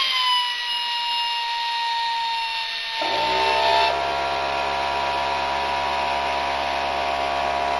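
Husky 6-gallon air compressor's electric motor starting up and running, a high whine that drops slightly in pitch. About three seconds in, a lower hum joins and the compressor runs on steadily.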